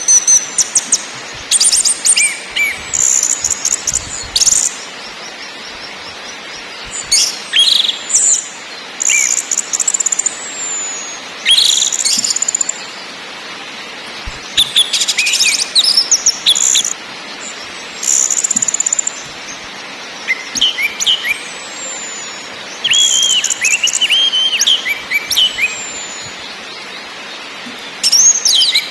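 Orange-headed thrush (anis merah) calling in repeated short bouts a second or two apart: high rattling strings of notes and quick whistled glides, over a steady hiss.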